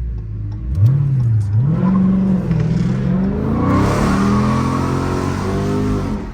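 Car V8 engine revving hard, its pitch rising and falling several times. About halfway in a hiss builds over it, typical of spinning tyres in a drift or burnout. It cuts off suddenly at the end.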